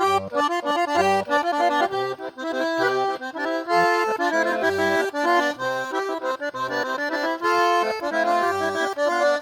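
Eight-bass diatonic button accordion playing a lively traditional melody, quick treble notes over a regular bass accompaniment.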